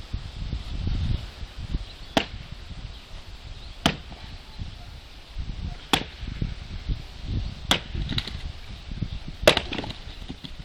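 Axe chopping firewood: five sharp strikes into wood, about one every two seconds.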